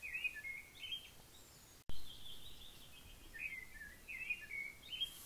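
Small birds chirping and twittering faintly, with a brief dropout just under two seconds in before the chirping resumes.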